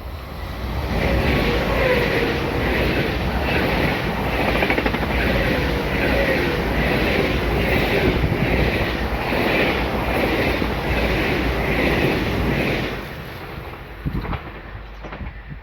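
A train passing on the line, loud for about twelve seconds with a regular pulsing of the wheels roughly every three-quarters of a second and a faint wavering whine, then dropping away near the end.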